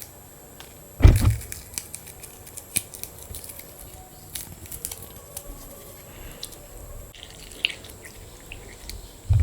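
Close-miked mukbang eating of panta bhat (water-soaked rice): wet squishing, dripping and small clicks as the rice is handled and eaten. A loud low thump about a second in and another at the end are the loudest sounds.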